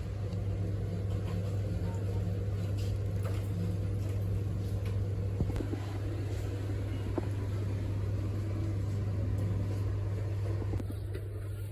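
Steady low mechanical hum with a noisy background and a few faint clicks; the sound thins slightly near the end.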